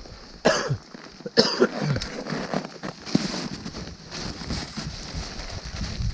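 Rustling and handling of outdoor clothing and gear as winter layers are put on, with two sharp knocks in the first second and a half.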